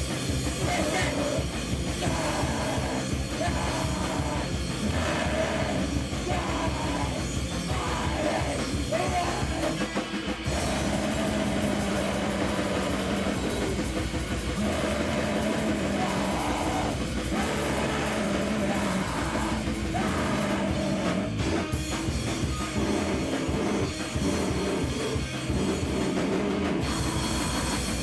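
A noise-rock band playing live: loud, dense distorted music with drums, continuous and without a break.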